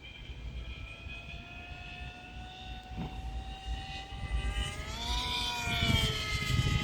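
Radio-controlled T-750 model airplane's motor whining as it flies. The whine grows louder in the second half, its pitch bending up and then dropping as the plane passes by.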